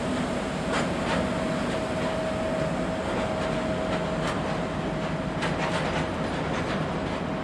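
Freight train of tank wagons rolling past behind an M62 diesel locomotive: a steady rumble with a steady whine running through it and wheels clicking over rail joints several times.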